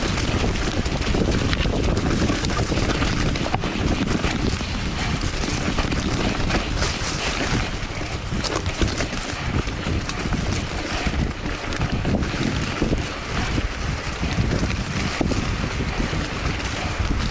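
Wind buffeting the microphone while a Polygon Siskiu T8 mountain bike rides a rough, wet trail, with frequent small knocks and rattles from the bike over the ground.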